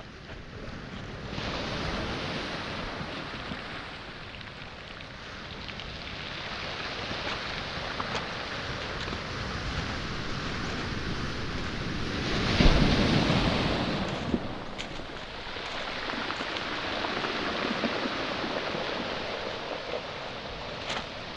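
Waves surging and washing over a pebble and boulder shore at high tide, swelling and ebbing, with one wave breaking loudly about two-thirds of the way in. A few sharp clicks of stones are heard.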